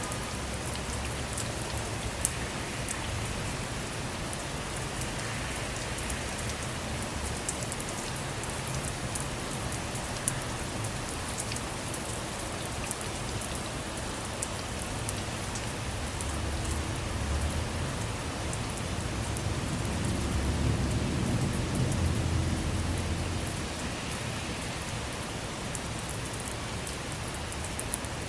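Steady rain falling on a car, with many single drops ticking sharply. A low rumble of distant thunder swells in and out about two-thirds of the way through.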